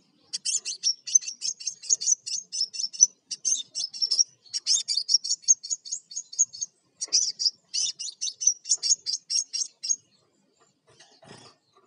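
Crimson sunbird singing: a fast, high-pitched chattering run of chirps in quick bursts, which stops about ten seconds in.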